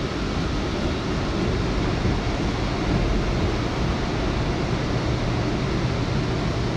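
Steady noise inside an R179 subway car: a constant low hum under an even hiss, with no clicks or jolts.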